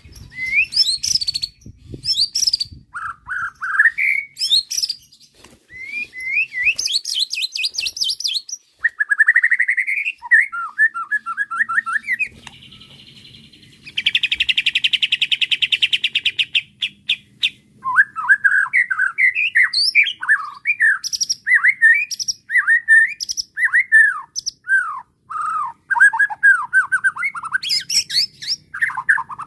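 White-rumped shama (murai batu) singing a long, varied song of whistled phrases that slide up and down. Near the middle comes a buzzy stretch, then a fast rattling trill, and after it a quick run of short sliding notes.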